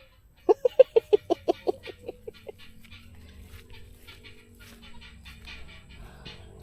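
A chicken clucking: a quick run of about a dozen clucks that fade away over two seconds, followed by a faint steady hum.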